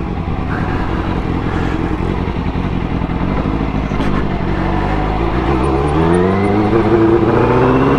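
Sport motorcycle engine running at low, steady revs, then rising steadily in pitch from about six seconds in as the bike accelerates.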